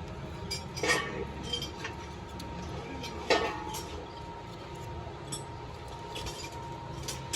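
Metal clinking as tools or parts are handled during car repair work: two sharp strikes, about a second in and just past three seconds, with lighter ticks between, over a steady hum.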